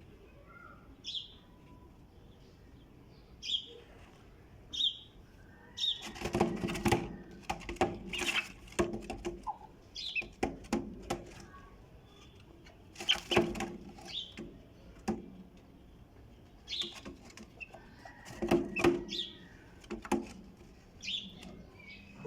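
Birds chirping in short high calls every second or two. Three bursts of rapid fluttering strokes, the loudest sound, come about a third of the way in, near the middle and about four-fifths of the way through, fitting wing flapping.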